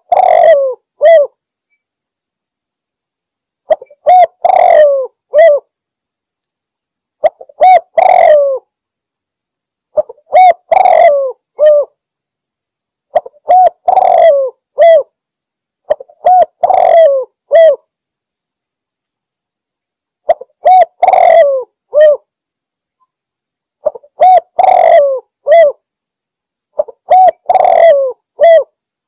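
Spotted dove (tekukur) cooing: a phrase of a few short coos around one longer, stronger coo, repeated about every three seconds, nine times.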